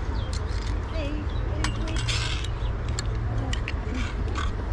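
Scattered sharp clinks and clicks of small hard objects over a steady low rumble, with faint distant voices.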